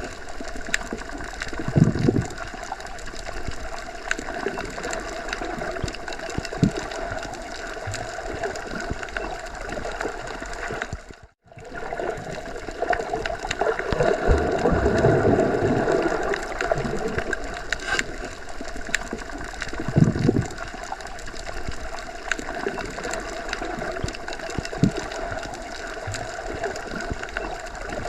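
Underwater ambience, the muffled sound heard when submerged: a steady wash of water noise with faint clicks and low surges, louder for a couple of seconds midway. It cuts out for a moment about eleven seconds in.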